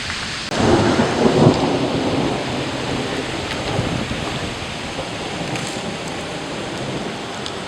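Steady noise of heavy rain and wind in a severe thunderstorm. It swells louder about half a second in, then settles after a second or so.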